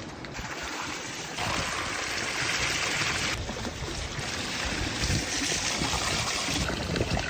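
River water running steadily. The rush grows louder from about a second and a half in and drops back at about three and a half seconds.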